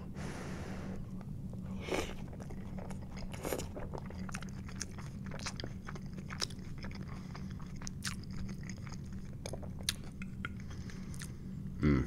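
Close-miked chewing of a mouthful of loaded tater tots with lettuce and tomato: irregular wet mouth clicks and soft crunches, over a low steady hum.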